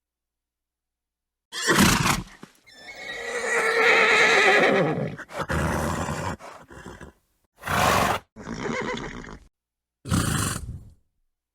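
Horse calls: a short snort, then a long wavering whinny of about two and a half seconds, followed by several short snorts with silent gaps between them.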